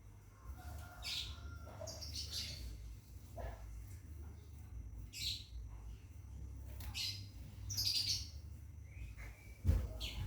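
Caged scarlet minivet calling: short, high chirps repeated every second or two over a low steady hum. A sharp knock sounds near the end.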